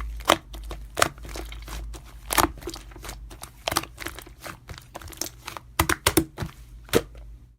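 Irregular clicks and crinkling handling noise over a low steady hum, cutting off suddenly near the end.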